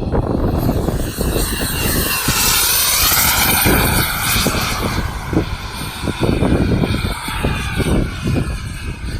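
Small RC model jet turbine engine whining at high power, its pitch dipping and then rising again about two to three seconds in, over an uneven low rumble.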